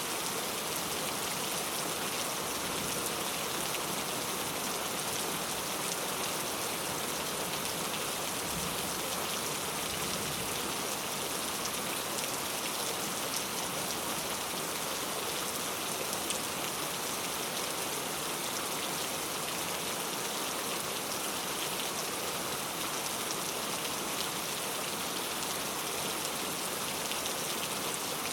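Steady rain falling, a continuous hiss with many fine drop ticks on a surface.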